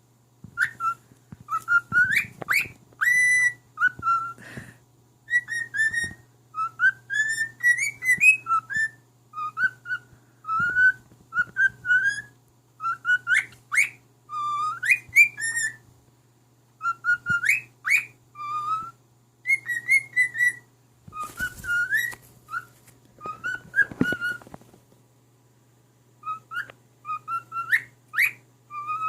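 Cockatiel whistling a tune in short phrases of quick notes and upward slides, with brief pauses between phrases. A faint steady low hum runs underneath.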